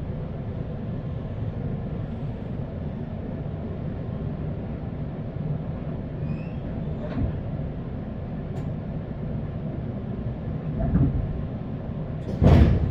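Interior sound of a JR West 201 series electric train car: a steady low rumble, with a thump about eleven seconds in and a louder bang near the end.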